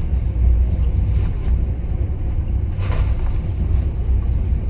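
Steady low rumble of a moving passenger train heard from aboard, with a short rush of hiss about three seconds in.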